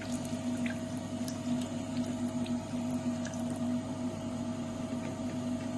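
Water running from a washbasin tap, with a steady hum alongside it.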